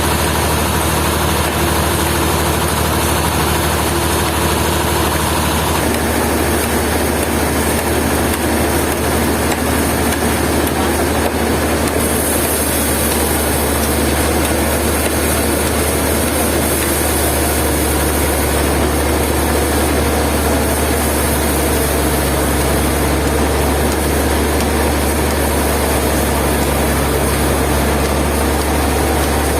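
Sawmill machinery engine running steadily with a continuous low hum; the sound shifts about six seconds in and again about twelve seconds in.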